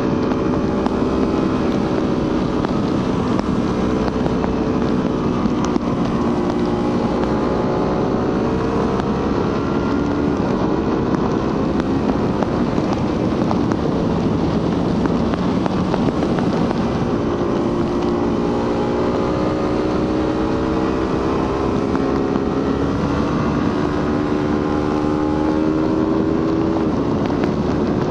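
Suzuki GSX-R150's single-cylinder engine and stock exhaust under way, the engine note climbing in pitch and then falling several times, with a sudden drop near the end. Wind rushes over the microphone throughout.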